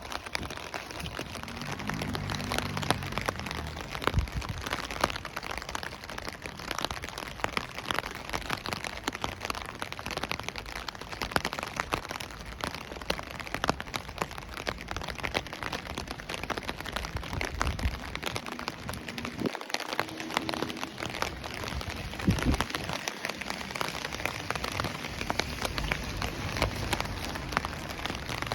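Steady rain falling, with many separate drops ticking sharply against a surface close to the microphone.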